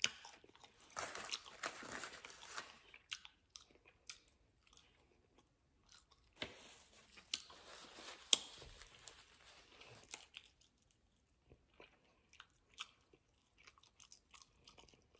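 Close-miked chewing and crunching of fried chicken wings, with sharp crunchy bites in two spells, the first few seconds and again in the middle, then quieter chewing.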